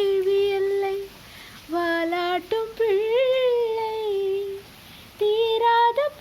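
A high female voice singing a Tamil song unaccompanied or nearly so, in three melodic phrases of long held, gently wavering notes with short breaths between them.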